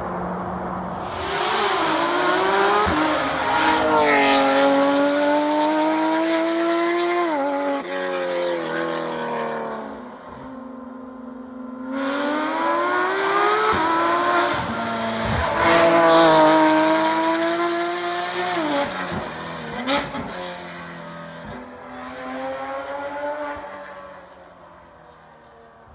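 Porsche 991 911 GT3 RS flat-six with Inconel straight pipes, revving hard under acceleration: twice the pitch climbs and then drops sharply at a gear change, with a lull in between, before the sound fades away near the end.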